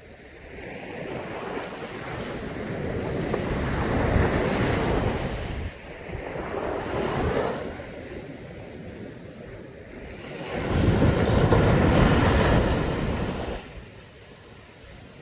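Caribbean Sea waves breaking and washing up a beach in surges: one builds to a peak about four seconds in, a smaller one follows, and the loudest breaks about ten seconds in and dies away three seconds later.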